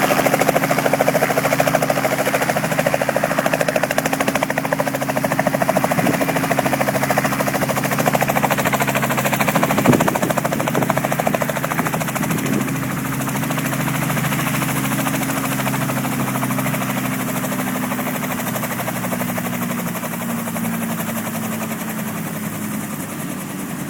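Helicopter running on the ground, its engine holding a steady tone under a fast rotor chop. The sound slowly gets quieter, and the engine tone dips slightly near the end.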